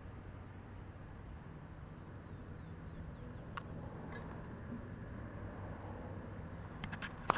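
Faint outdoor ambience: a steady low hum, a few faint clicks, and a couple of faint bird chirps midway.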